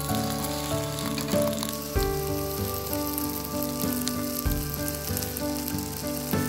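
Batter-coated napa cabbage leaves sizzling in hot oil in a frying pan. Soft background music plays with it: held notes that change every so often, and a low thump twice.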